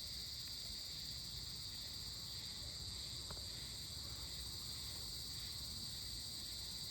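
Steady insect chorus, a continuous high-pitched trilling at several pitches, with one faint click a little past the middle.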